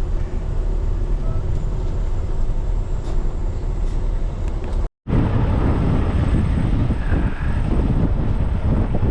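A truck's engine running steadily with a low rumble. About five seconds in it cuts off abruptly, and strong wind then buffets the microphone in gusts.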